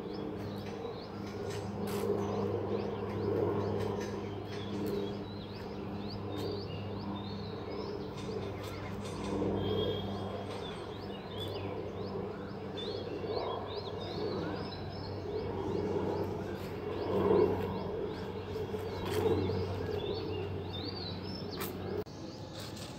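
Small birds chirping in short, repeated calls over a steady low background hum of outdoor ambience.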